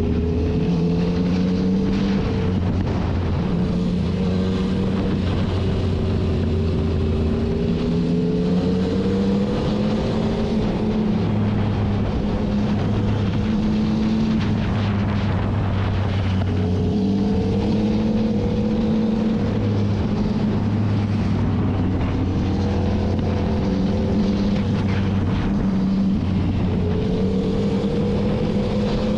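Yamaha FZ-09's three-cylinder engine pulling under throttle while riding, its pitch rising and dropping several times as it accelerates and shifts gears. Wind rushes over the microphone.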